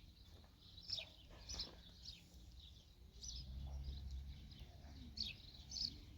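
Small birds chirping faintly in short, high, falling chirps, about one or two a second, with a low rumble for about a second a little past the middle.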